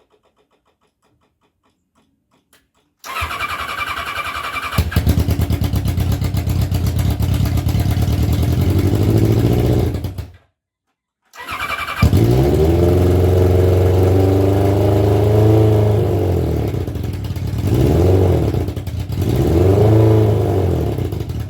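Kawasaki ZZR1100 inline-four motorcycle engine, mounted in a car, starting about three seconds in and running cold. It cuts out briefly, then comes back with one long rev and two shorter blips of the throttle near the end.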